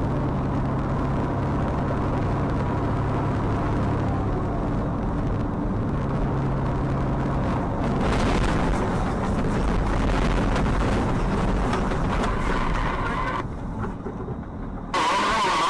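Steady road and engine noise of a moving car, with a low steady hum. It drops away abruptly near the end, where a different, brighter sound begins.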